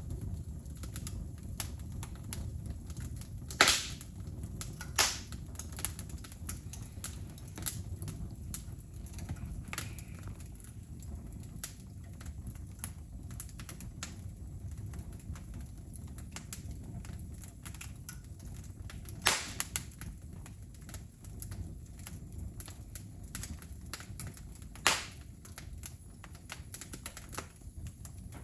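Wood fire crackling, with a steady run of small snaps and a few louder pops spaced well apart.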